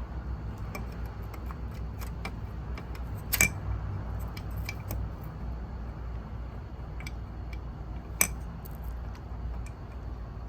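Scattered light clicks and clinks, like small hard objects being handled, with two sharper clicks about three and a half and eight seconds in, over a steady low hum.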